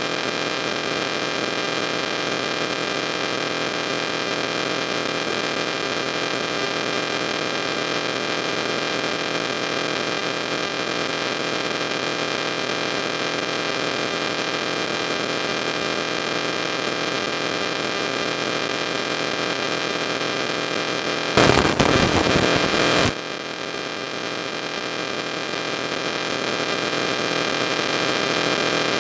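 Steady electrical hum and static hiss with several fixed tones. About 21 seconds in, a louder burst of noise lasts about a second and a half and cuts off suddenly.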